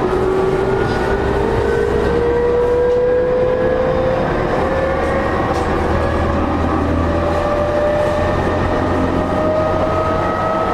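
JR East E231-0 series commuter train's traction motors whining under power, the whine rising steadily in pitch as the train gathers speed, over a steady rumble of wheels on rail.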